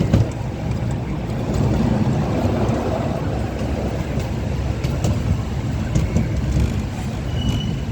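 Ride-on train running, a steady low rumble with a few faint clicks.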